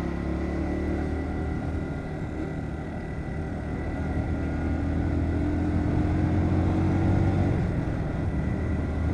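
Bajaj Pulsar NS125 motorcycle's single-cylinder engine running at a steady cruise, with a low, even hum and road noise.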